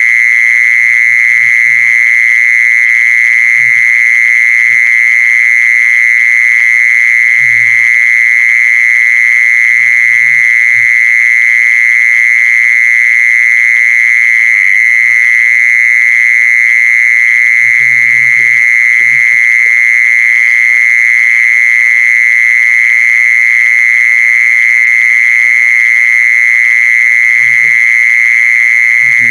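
Mole cricket's continuous high trill, one steady pitch that does not change, with a few faint low knocks underneath.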